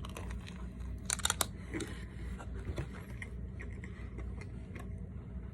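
A person biting into and chewing a frosted glazed doughnut, with a short burst of crackling about a second in, then soft chewing.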